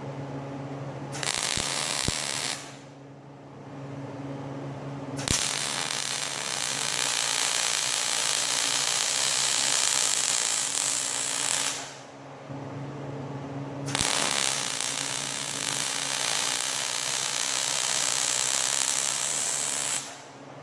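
Electric arc welding in three bursts, a crackling hiss that starts and stops sharply, with a steady low hum from the welder in the pauses between beads.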